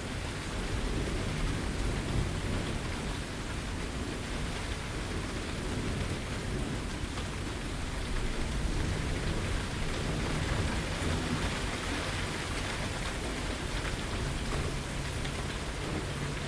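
Steady rain falling and pattering on surfaces, with a low rumble of thunder underneath that swells and fades.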